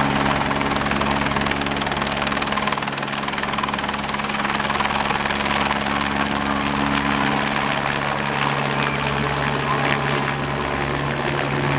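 Helicopter running close by: a steady, loud engine and rotor sound with several constant low tones.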